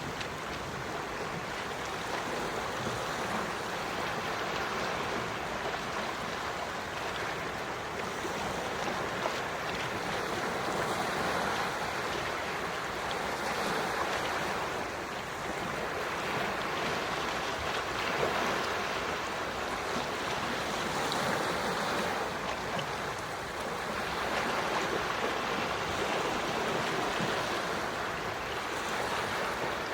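Quiet sea waves washing onto the shore, a steady hiss of water that swells and eases gently every few seconds.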